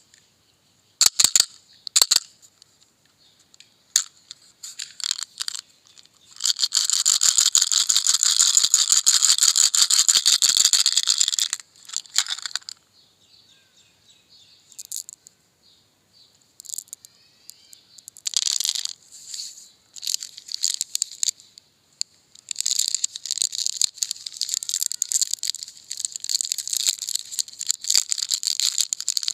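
Small hard objects rattling in two long spells of fast shaking, with a few sharp clicks and taps before and between them.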